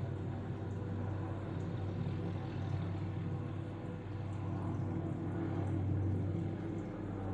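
Tree-trimming helicopter with a suspended saw, hovering close by: a steady drone of rotor and engine with a low hum, swelling slightly about two-thirds of the way through.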